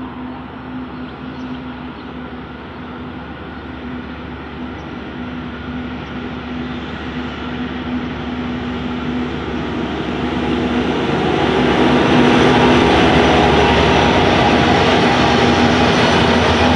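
Three diesel locomotives hauling a loaded coal train, their engines running with a steady hum that grows louder as they approach and pass about eleven seconds in. The coal hopper wagons then roll by on the rails.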